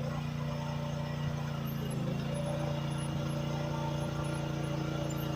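Engine of a 1-ton mini excavator running steadily while it works, grading dirt.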